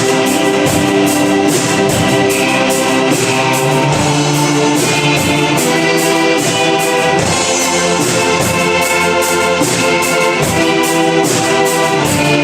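A live band playing a song: sustained pitched chords over a steady, even drum beat.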